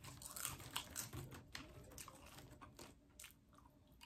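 Popcorn being chewed: faint, irregular crisp crunches that thin out after about two and a half seconds.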